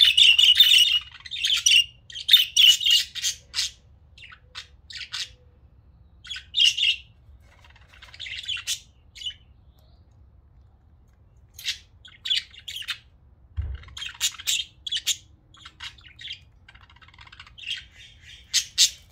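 Pet budgerigars chirping and squawking in quick clusters of short, high calls, with short pauses between. A brief low bump sounds about two-thirds of the way through.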